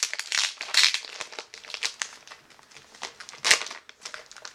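Packaging of wax melts being handled and unwrapped: irregular crinkling and crackling, with a sharper, louder crinkle about three and a half seconds in.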